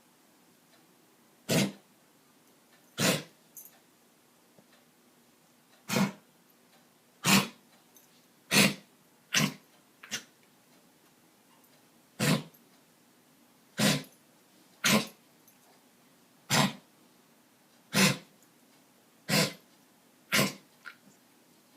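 A dog coughing, one short cough at a time, about every one to two seconds, around a dozen times. The owner wonders whether it is kennel cough.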